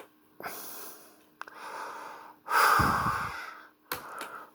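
A person breathing out noisily close to the microphone: several breaths, the loudest about two and a half seconds in with a rumble of air on the mic. A couple of sharp clicks come near the end over a faint steady hum.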